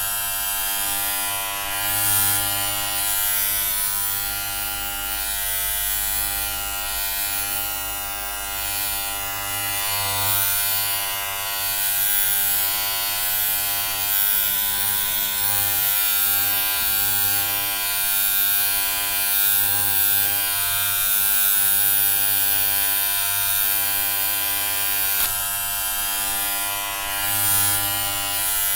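Electric hair clippers buzzing steadily, with a gentle rise and fall in loudness.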